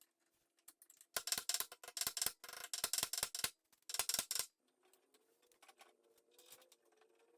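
Several runs of rapid mechanical clicking over about three seconds, a ratcheting tool driving screws as the desk is reassembled. A faint steady hum follows.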